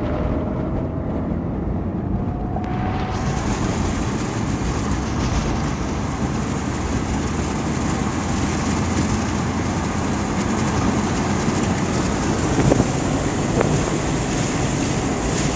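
Steady rumbling noise of moving along, with wind on the microphone and two light knocks near the end.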